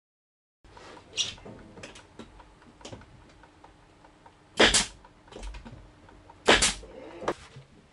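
A hand staple gun firing into the trim covering: a sharp snap about a second in, two loud shots about two seconds apart later on and a lighter one near the end, with small clicks and handling noise between.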